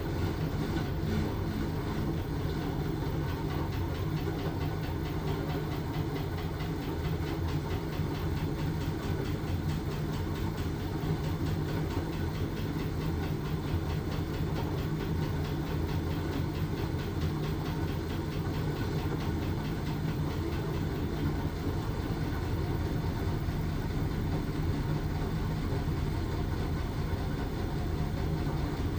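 LG washing machine running a load of blankets, a steady low rumble with no pause or change.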